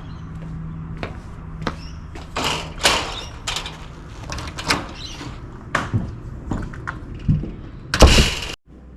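A string of irregular clicks, knocks and scrapes from things being handled or moved, with a louder, longer scrape about eight seconds in that cuts off suddenly.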